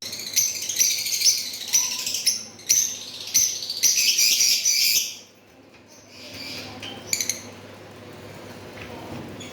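Pet parrots chirping and chattering densely for about five seconds, then falling to a few scattered calls with a short burst of chirps near the end.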